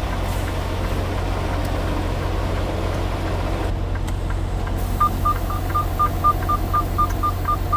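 Semi truck's diesel engine idling with a steady low hum. About five seconds in, a rapid electronic warning beep starts in the cab, repeating about three to four times a second.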